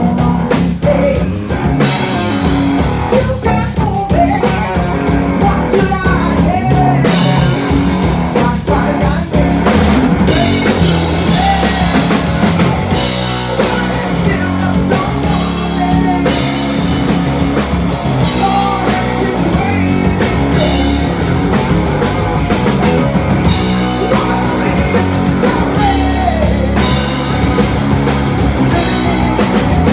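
Blues-rock band playing live: guitar lines that bend in pitch over bass and a drum kit, at a steady loud level.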